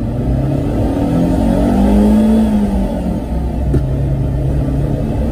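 Car engine heard from inside the cabin, rising in pitch as the car accelerates, then falling away about two and a half seconds in. A short click follows, and the engine runs on at a steady, lower pitch: consistent with an upshift on the manual gearbox.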